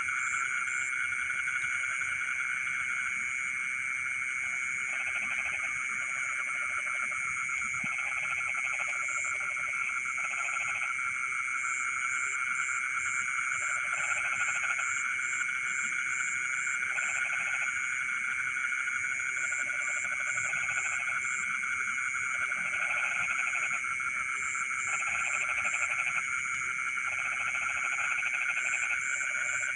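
A dense chorus of many frogs calling at once, making a steady trilling drone. Lower croaking calls come in short groups every second or two. Runs of rapid, high chirps sit above the chorus.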